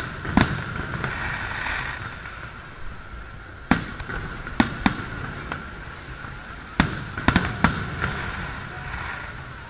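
Aerial fireworks shells bursting overhead: about nine sharp bangs. After the first bang comes a gap of about three seconds, then a run of bangs with a quick cluster of three about seven seconds in.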